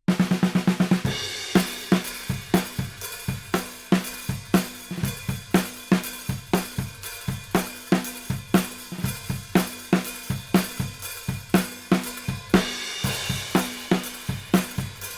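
Acoustic drum kit played through a 500-series mic preamp (Quagliardi 501+) with its input gain fully up, so the drums are saturated and distorted. It opens with a quick fill, then settles into a steady beat of kick, snare and hi-hat, with a cymbal swelling near the end.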